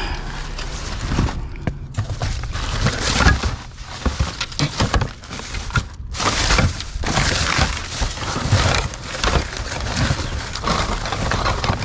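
Rummaging by hand through a pile of discarded junk: irregular rustling, crackling and knocks as debris is moved and picked over.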